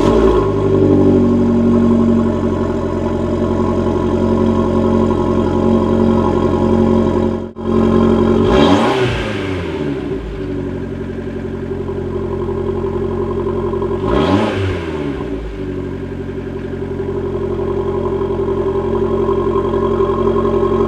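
Fiat Abarth 595 Turismo's 1.4-litre turbocharged four-cylinder engine idling just after being started. It is revved twice, once about eight seconds in and again about six seconds later, each time rising quickly and falling back to idle.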